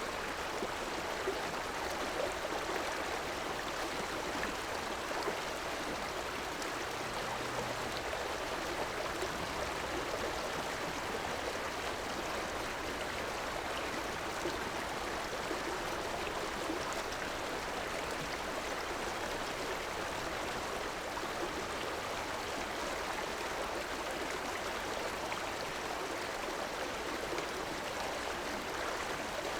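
A river flowing steadily over rocks, a continuous rushing with small splashes and gurgles.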